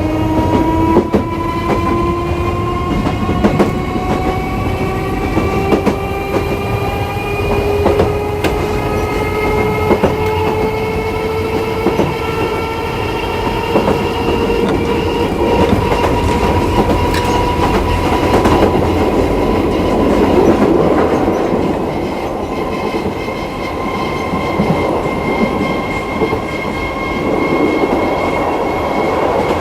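Nose-suspended (tsurikake) traction motors of a Hiroshima Electric Railway 3100 series articulated tram, heard inside the car: a loud growling motor whine that rises steadily in pitch as the car accelerates, levelling off about two-thirds of the way through, over wheel rumble and the clatter of rail joints.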